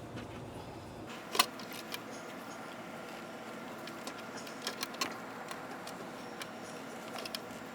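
Scattered light clicks and clatter of hands working in an engine bay, moving the wiring harness and loosened intake manifold, with one sharper knock about a second and a half in and a few quick clicks around the middle.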